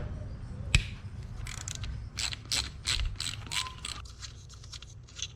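A hand tool working on the carburetor to unscrew its main jet: one sharp click a little under a second in, then a quick run of metallic clicking and scraping strokes, about three a second, for a couple of seconds.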